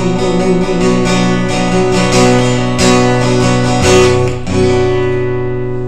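Acoustic guitar strumming the closing bars of a song, ending on a final chord about four and a half seconds in that is left to ring and fade.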